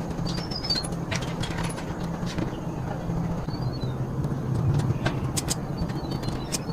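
A small engine running steadily with a low, even hum. There are a few light clicks, and birds chirp now and then.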